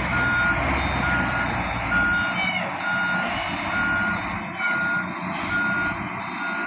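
Reversing alarm beeping steadily, about one beep a second, over the running diesel engine of heavy machinery while a bulldozer is loaded onto a truck. Two short high hisses come through midway.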